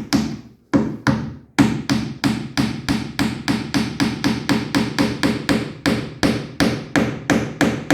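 A mallet striking wood to drive glued dowels home into their holes. Two blows, a short pause, then a steady run of about four or five quick blows a second.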